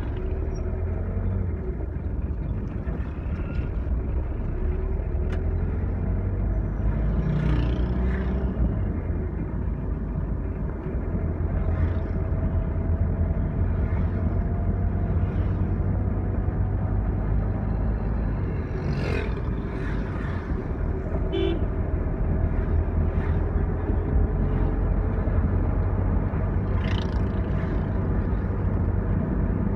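A vehicle driving on the road: steady engine and road rumble with the engine note drifting slowly up and down. A brief horn toot sounds about two-thirds of the way through.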